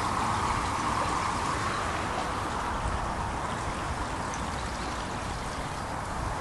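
Steady rushing hiss, even throughout, with no distinct knocks or bangs.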